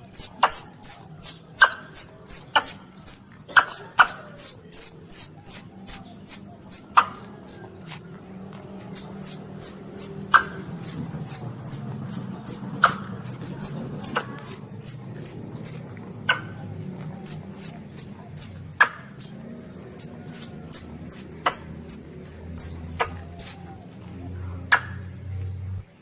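Recorded calls of a young Asian palm civet (luwak), used as a hunting lure call: a fast run of short, very high-pitched squeaks, each dipping slightly in pitch, about two to three a second. There is a brief pause around a third of the way in, and occasional sharp clicks and a faint low hum underneath.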